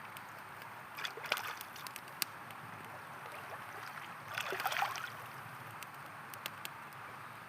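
River water flowing steadily, with sharp crackles and pops from a campfire scattered through it. Two brief louder splashy bursts come about a second in and around four and a half seconds in.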